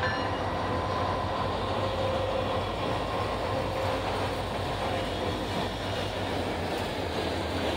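Indiana Harbor Belt diesel freight train passing close by: the locomotive goes past, then tank cars and autorack cars roll by with a steady rumble of wheels on the rails.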